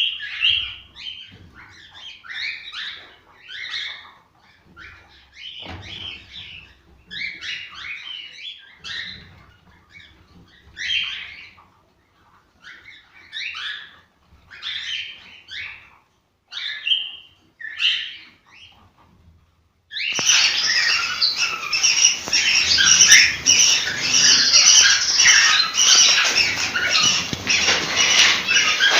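Cockatiels chirping and whistling in short, separate calls. About twenty seconds in, the sound switches abruptly to a denser, louder chatter of many birds calling at once.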